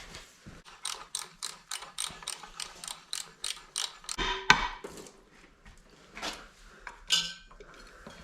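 Hand ratchet clicking in an even run of about four clicks a second, backing out bolts on a Ford 460's front timing cover, followed by one sharp metallic knock and a few lighter tool clicks.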